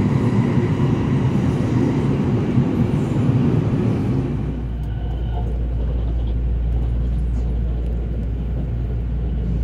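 Cabin running noise of a JR 281 series Haruka limited express train under way: a steady rumble of wheels on rail. About four seconds in the rumble drops off and gives way to a lower, steadier hum.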